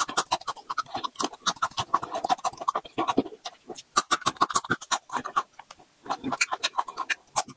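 Close-miked chewing of a raw garlic clove and fresh red chili peppers: rapid, irregular crunches and wet mouth clicks, with a bite into a chili about four seconds in.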